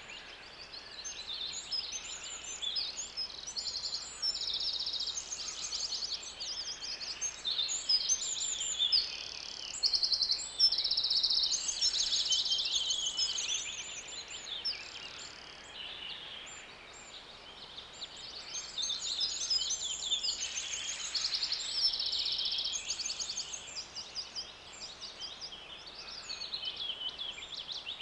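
Bird chirping: rapid, high chirps and trills in dense runs, busiest in two long spells with a quieter lull between them, over a faint steady background hiss.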